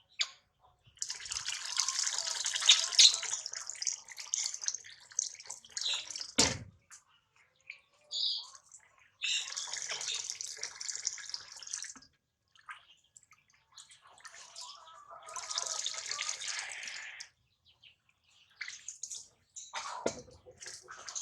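Bath water splashing in spells of a few seconds as a newborn monkey is washed in warm water. There is a dull thump about six seconds in and another near the end.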